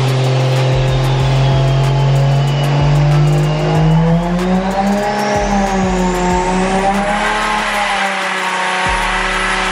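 Turbocharged Toyota JZX100 straight-six running under load on a hub dyno. Its engine note holds steady, then steps up in pitch about four seconds in. A high turbo whistle dips and then climbs sharply to a held high pitch near the end.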